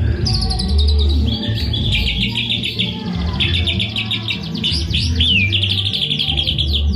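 White-rumped shama (murai batu) singing loudly and continuously: long runs of rapid repeated notes and chatter, broken by swooping whistled slurs in the second half.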